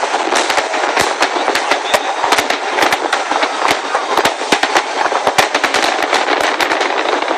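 Japanese aerial firework shells bursting in a rapid barrage: several sharp bangs a second over a continuous dense crackle.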